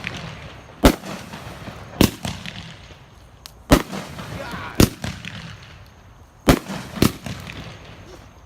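Fireworks going off: six sharp bangs spaced unevenly about a second apart, each with a brief echoing tail.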